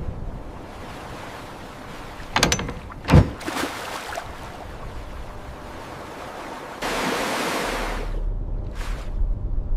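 Rushing water noise, like waves or spray, with two sharp knocks about two and a half and three seconds in, and a louder hiss that starts near seven seconds over a low rumble.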